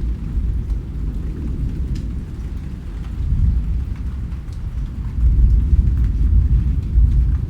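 Rain recording dominated by a deep, low rumble that swells about three seconds in and again from about five seconds on, with faint scattered drop ticks above it.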